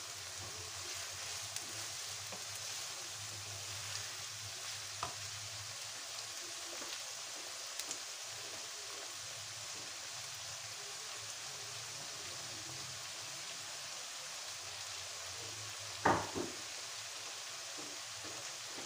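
Chana daal and bitter gourd sizzling steadily in oil in a nonstick wok, with a few faint ticks. One brief louder sound comes about sixteen seconds in.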